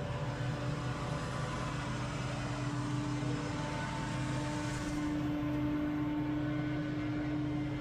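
Small engine of lawn equipment running steadily at a constant speed, with an airy hiss over it that drops away about five seconds in.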